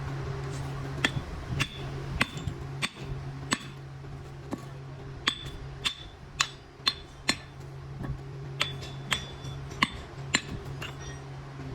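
Metal striking metal: about fifteen sharp clinks at irregular intervals, roughly one every half second, some ringing, over a steady low machine hum.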